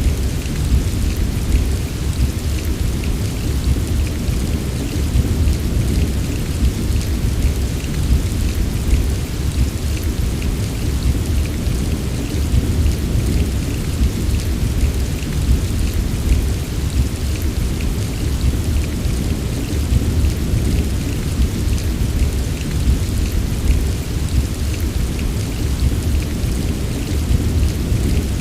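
Steady heavy rain, a continuous hiss of falling drops over a deep, constant low rumble, with no distinct thunderclap.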